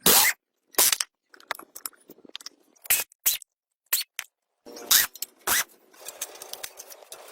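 Irregular sharp clicks and scrapes from hand-tool work, about seven loud ones with silent gaps between, and a faint steady hiss in the last second or so.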